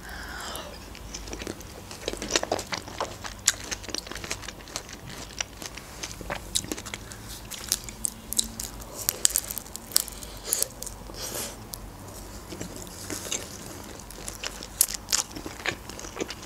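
Close-miked eating sounds: a slice of fresh kiwi bitten and then chewed, with many small, sharp wet clicks and smacks from the mouth.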